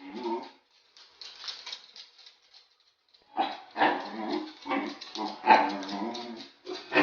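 A dog whining in a run of short, pitched cries that start about three seconds in, after one brief cry at the start. It is the fretful whining of a dog too scared to walk past a cat.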